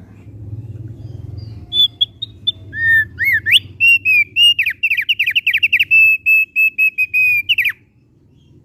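Thick-billed white-eye (opior paruh tebal) singing: one phrase of clear whistled notes starting about two seconds in. The phrase runs into a quick series of down-slurred notes and stops abruptly near the end, over a low steady background hum.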